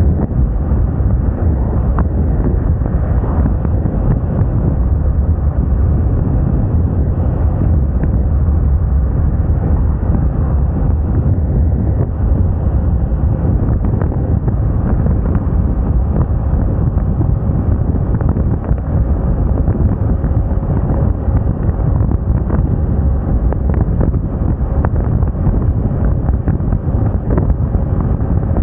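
Steady wind rush buffeting the microphone on a moving scooter, with the Moda Moca 110's engine running underneath at an even speed.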